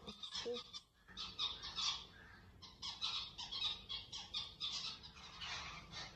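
Small birds chirping in a rapid run of short, high chirps, with a brief pause about a second in.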